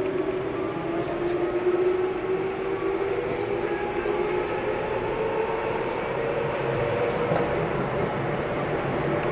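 Interior running sound of a Tokyu 9000 series electric train, heard from a motor car: steady rumble of wheels on rail under a whine from the traction motors and GTO-VVVF inverter. The whine climbs slowly in pitch as the train gathers speed.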